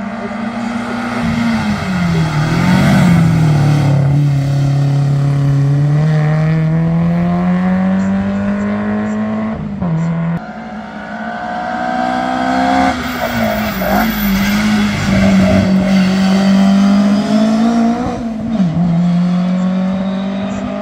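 Historic competition car's engine driven hard, pitch rising as it pulls and then dropping back at each lift or gear change: about one and a half seconds in, at about ten seconds, and near eighteen seconds.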